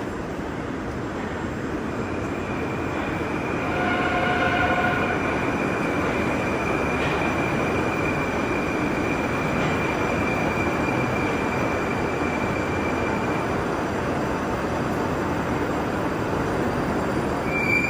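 Moscow Metro Moskva-2019 train running, with a dense steady rumble and a thin high steady whine that fades out near the end. The noise gets louder about four seconds in.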